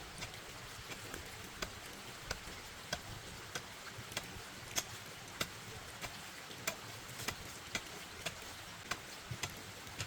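A run of sharp, light ticks or taps, irregularly spaced at about one to two a second, over a faint steady hiss.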